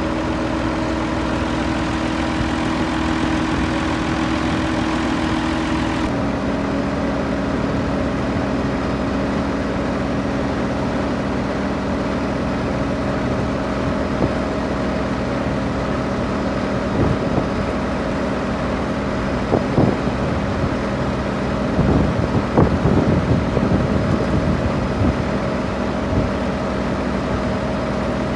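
Massey Ferguson 399 tractor's six-cylinder Perkins diesel engine running steadily while pulling a slurry tanker, its note stepping down about six seconds in. From about two-thirds of the way through, irregular knocks and rattles come over the engine.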